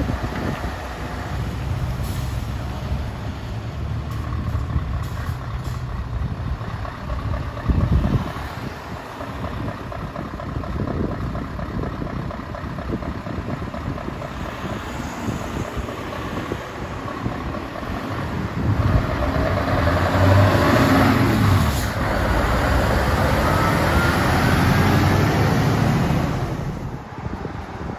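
Heavy trucks' diesel engines running as they drive past. The loudest pass comes in the last third, with a rising whine as the truck accelerates, then fades just before the end.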